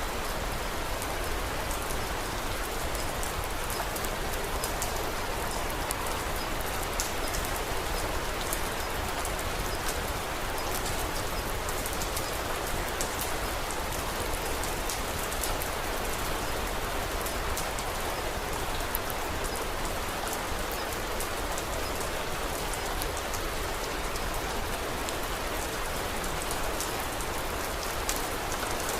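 Steady rain falling, with frequent small sharp ticks of drops scattered through it.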